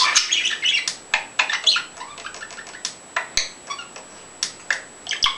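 Pet birds chattering in rapid, irregular short chirps and squawks, with wing flapping.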